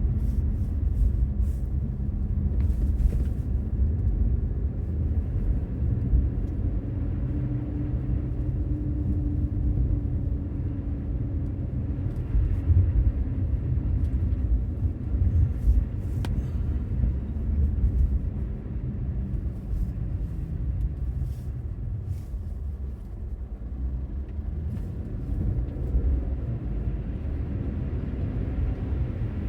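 Infiniti Q50 Red Sport 400's twin-turbo V6 running as the car drives through snow, a steady low rumble of engine and tyres. The engine note rises a little about a quarter of the way through and drops back past the middle.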